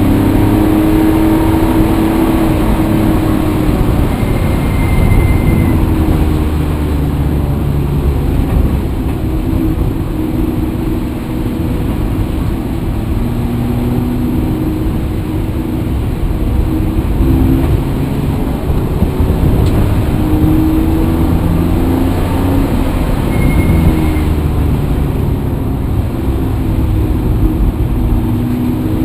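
Motor vehicle engine running while driving, its pitch rising and falling several times as the revs change.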